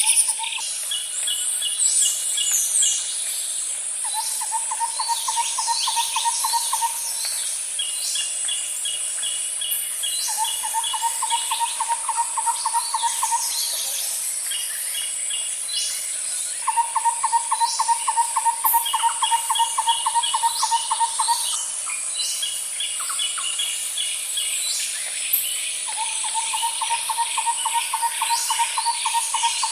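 Outdoor nature ambience of insects and birds: a steady high insect drone runs under a lower pulsed trill that lasts three to four seconds and comes back four times. Between the trills there are short runs of quick, higher chirps and scattered brief bird calls.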